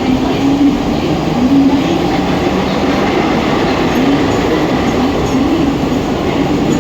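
Mumbai suburban local train, an electric multiple unit, running: a steady, loud noise of wheels on the track, with a low wavering hum.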